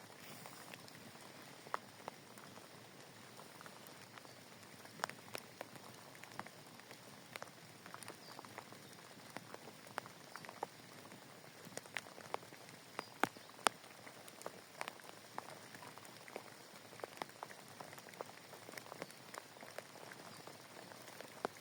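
Rain falling steadily, with a soft hiss and individual drops ticking sharply and irregularly on a nearby surface.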